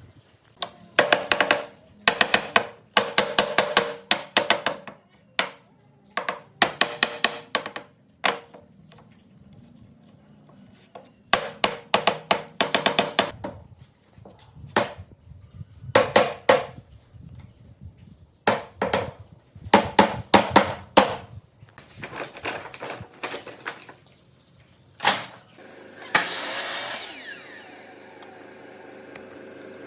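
A handheld power tool working wood in short bursts, its motor whining for a second or two at a time with pauses between. A longer run near the end shifts in pitch as the tool speeds up and slows down.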